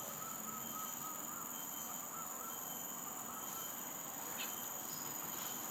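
Steady high-pitched drone of an insect chorus, with a faint wavering tone in the first half and one brief high chirp about four and a half seconds in.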